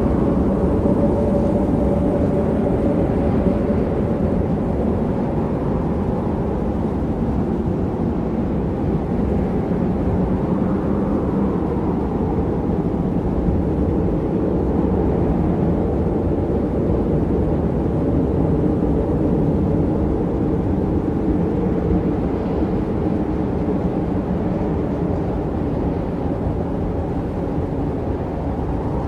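Blizzard wind blowing steadily in a low, dense rush with slow swells and a faint howling tone.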